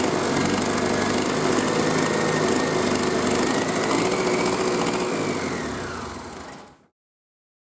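Renault K9K 732 1.5 dCi four-cylinder diesel engine running steadily on a test stand, with a faint whine above the engine note. Near the end it fades and then cuts off abruptly.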